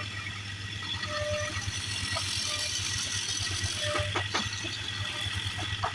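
Wood lathe running with a steady motor hum and a high hiss, with a few light knocks.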